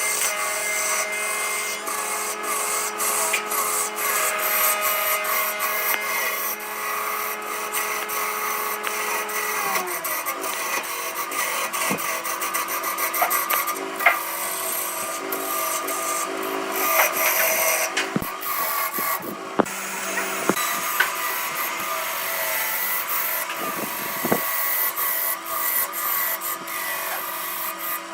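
Wood lathe running with a tool scraping and rubbing against the spinning wood, with scattered sharp clicks. The motor's steady hum drops in pitch about ten seconds in.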